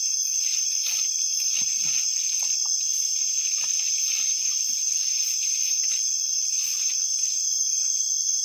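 Night insect chorus, crickets and other insects chirring in a steady, high, unbroken drone.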